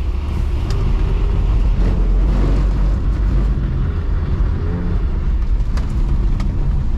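BMW E46 320i's M54B22 2.2-litre straight-six heard from inside the cabin while drifting on a wet road, the revs rising and falling with throttle adjustments over a heavy low road rumble.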